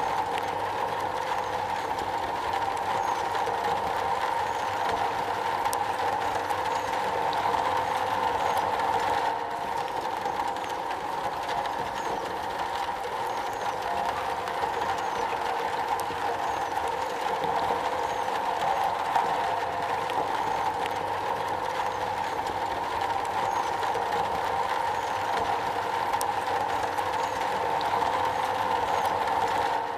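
Steady rain falling on a metal roof, a dense continuous patter with a metallic ring and fine ticks of single drops.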